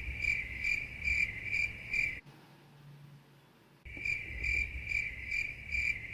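Crickets-chirping sound effect: a steady pulsing trill, about two and a half chirps a second. It cuts off sharply about two seconds in and starts again just as sharply nearly two seconds later, the comic 'crickets' of an awkward silence.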